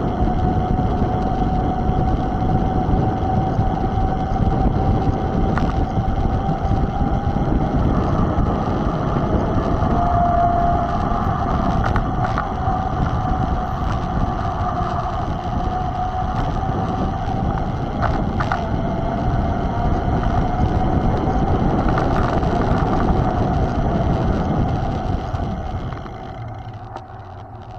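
Wind rushing over the microphone of a mountain bike riding at speed, with a steady whine that wavers slightly in pitch and a few faint clicks. The sound quietens about two seconds before the end.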